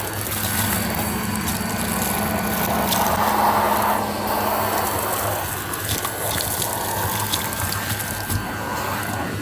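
Goodmans TurboMax vacuum cleaner running with a steady motor hum and a rush of air, the rush swelling briefly about three to four seconds in.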